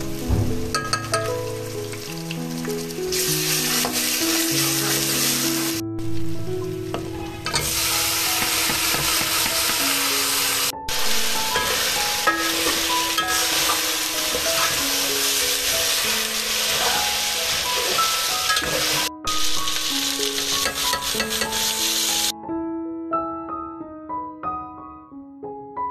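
Food sizzling as it fries in a pan, a dense steady hiss, with gentle melodic background music over it. The sizzle breaks off abruptly a few times and stops near the end, leaving only the music.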